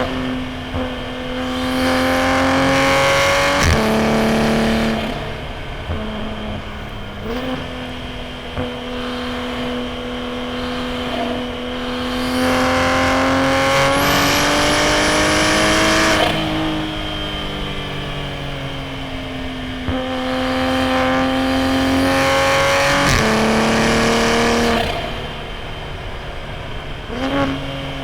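Toyota A90 Supra's turbocharged B58 inline-six through a straight-piped titanium single-exit exhaust, driven hard: the engine note swells and climbs in pitch under throttle three times and drops back quieter between, with quick jumps in pitch at gear changes.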